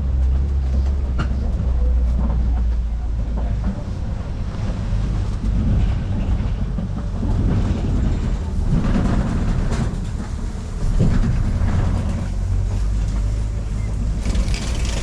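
Open-sided safari ride truck driving along an uneven track: a steady low engine and road rumble with scattered knocks and rattles.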